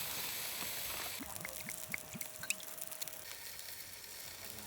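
Outdoor forest ambience: a steady hiss like running water, changing about a second in, with a few short faint chirps and ticks scattered through it.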